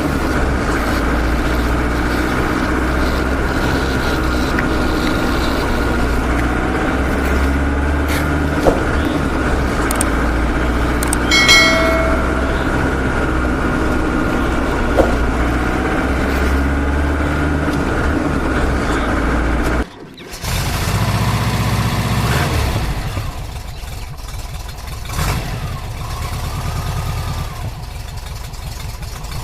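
Steady vehicle engine drone with a brief horn-like tone about a third of the way in. About two-thirds through it cuts off suddenly and a different, quieter engine sound takes over.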